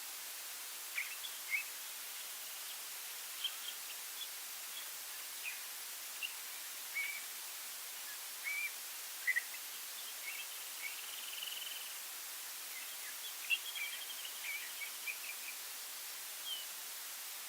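Wild songbirds calling in short scattered chirps, with a couple of brief trills, over a steady background hiss.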